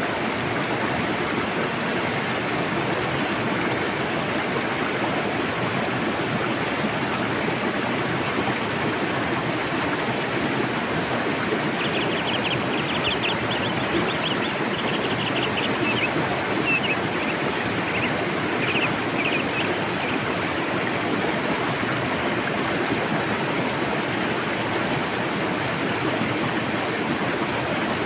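A fast-flowing river rushing steadily. Midway through, a faint rapid high-pitched chatter of short notes sounds over the water for several seconds.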